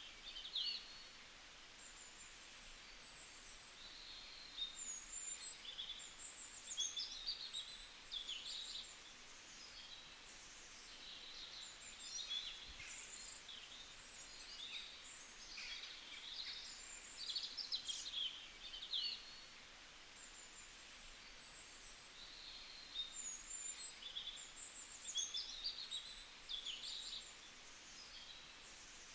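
Small songbirds chirping and singing in quick, high phrases, coming in bouts of several seconds with short lulls between, over a faint steady hiss of forest ambience.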